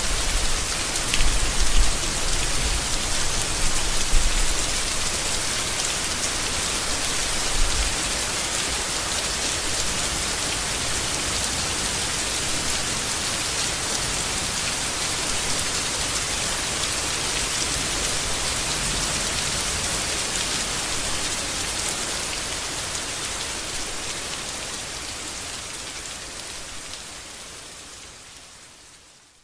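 Steady heavy rain falling on leaves, a dense even patter, with a few low rumbles in the first several seconds. The rain fades out over the last several seconds.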